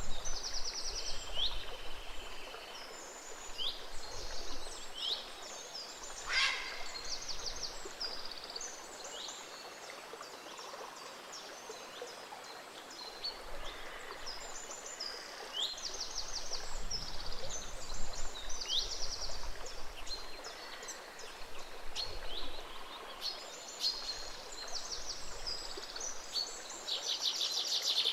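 Several songbirds chirping and singing in quick trills over the steady, gentle rush of a small stream, with one fast rising whistle about six seconds in.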